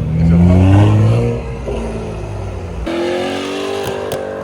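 Car engine revving hard, its pitch climbing, loudest in the first second and a half. After an abrupt change, a second rev climbs in pitch, with a couple of sharp cracks near the end.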